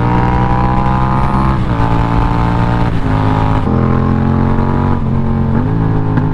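Yamaha MT-07's 689 cc parallel-twin engine, breathing through an unbaffled aftermarket full exhaust, pulling hard under acceleration. Its pitch climbs, then steps down at each gear change, about four times.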